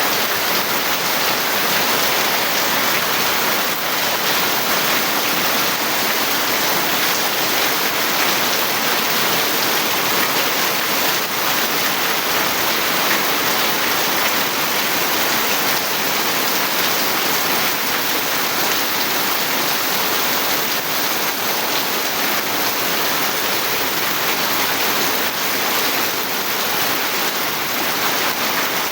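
Steady heavy rain falling, a dense even hiss with fine patter of drops.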